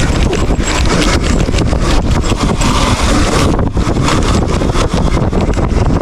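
Wind buffeting the microphone during a fast dirt bike ride, with a dense run of knocks and jolts from the bike bouncing over rough ground.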